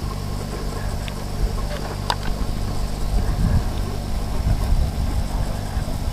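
An engine running steadily at idle, with a sharp click about two seconds in.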